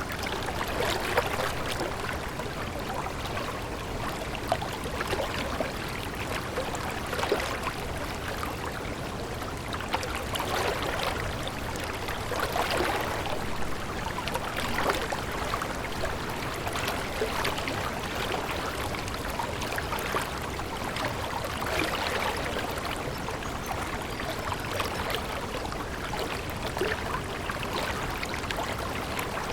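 Stream water flowing and trickling over stones, a steady babbling with constant small splashes.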